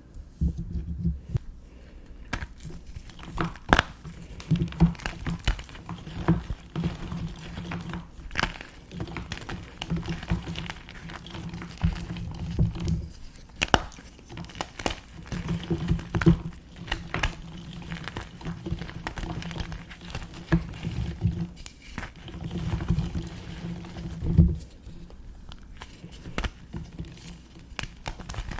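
Small blocks of gym chalk being crushed and crumbled by hand: a run of irregular crisp crunches and snaps, with quieter rustling of crumbling powder between them.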